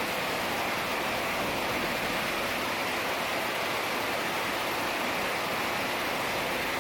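Heavy rain falling steadily, an even hiss of water with no let-up.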